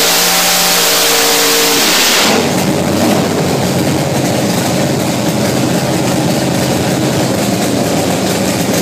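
Big block V8 drag car engine on a chassis dyno, pulling at part throttle with its pitch rising slightly. About two seconds in it drops off sharply as the run ends, falling to a lower, choppy, lumpy running.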